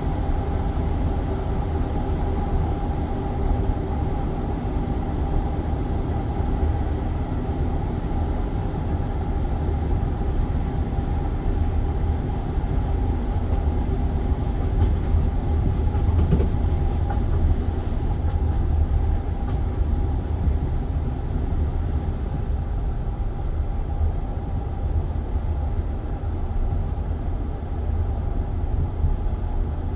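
Passenger train carriage running along the track, heard from inside: a steady low rumble of wheels on rails with a few steady tones in it.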